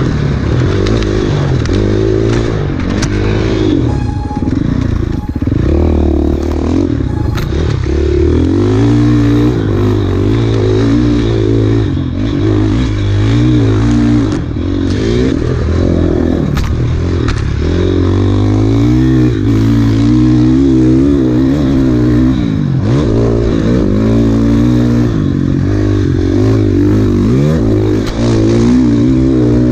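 Enduro dirt bike engine revving hard and continuously, its pitch rising and falling every second or two as the throttle is worked, with rattles and knocks from the bike over rough ground.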